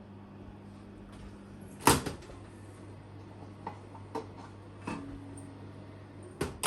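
Air fryer being handled: a loud clunk about two seconds in, a few light clicks, and another loud clunk at the end, over a steady low hum.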